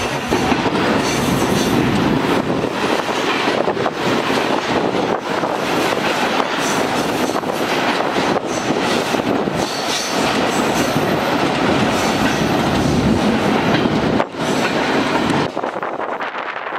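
Loaded coal hopper wagons of a long freight train rolling past on the track: a steady, loud rumble and clatter of steel wheels on the rails, thinning out about a second before the end.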